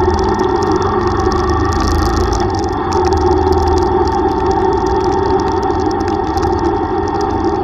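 Yamaha YTX125 motorcycle's single-cylinder engine running steadily under way.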